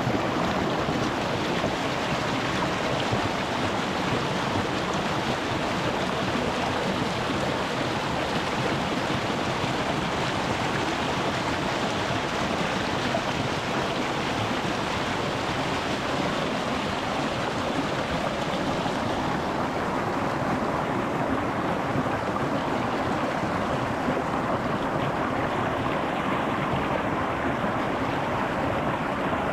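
Rocky mountain stream flowing over stones: a steady rush of running water. About two-thirds of the way through, the higher splashing hiss thins out and the sound becomes a little duller.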